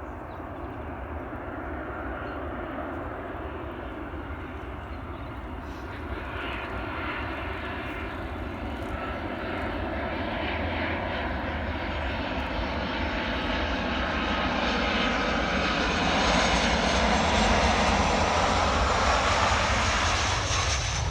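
Aircraft engines growing steadily louder as a plane comes closer. A high whine rises through the noise about a quarter of the way in, and the sound is loudest near the end.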